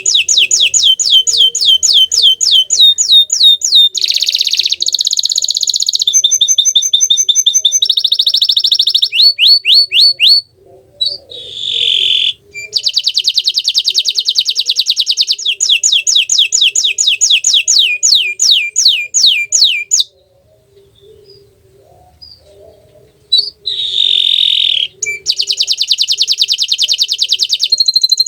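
Bottle-green domestic canary singing: long strings of rapid repeated notes and sweeping trills, high-pitched and loud. The song breaks off briefly about ten seconds in and falls silent for about three seconds after twenty seconds before resuming.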